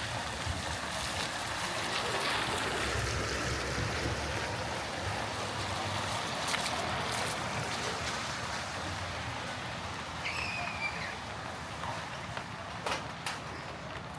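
Steady rain falling on a wet city street, with a low rumble of traffic passing a couple of seconds in, a few sharp ticks and taps, and one brief high squeak about ten seconds in.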